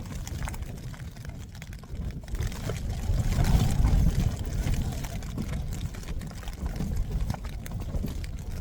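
Storm wind gusting against the tent, a low rumble that swells about three seconds in and then eases.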